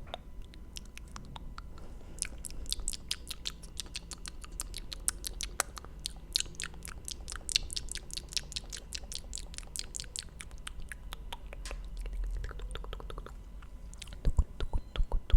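ASMR mouth sounds: a dense run of small wet clicks and smacks of the lips and tongue, with a few louder ones near the end.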